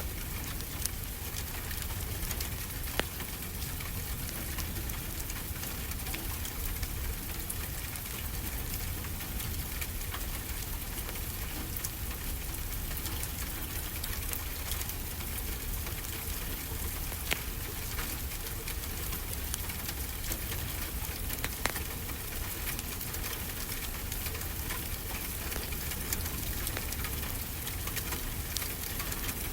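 Steady rain together with a crackling wood fire in a fireplace, the fire giving off occasional sharp pops over the even hiss of the rain.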